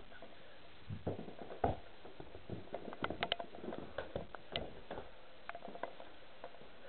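Faint, irregular knocks and clicks, with a louder thump about a second and a half in.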